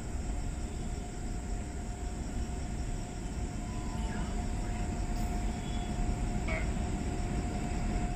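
Approaching electric train led by a WAP-7 locomotive: a steady low rumble that does not let up, with a thin steady tone running through it and a high steady hiss above.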